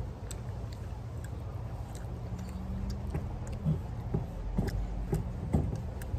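Chewing and small wet mouth clicks from people eating, more frequent in the second half, over a steady low rumble.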